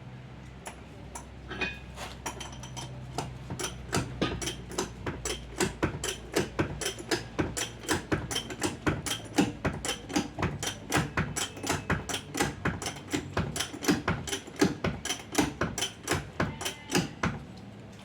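A fast, even series of sharp clicks or taps, about four to five a second, starting about a second and a half in and stopping near the end, over a low hum in the first few seconds.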